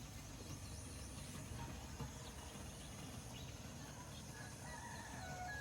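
Faint outdoor morning ambience: scattered bird chirps over a steady high insect trill.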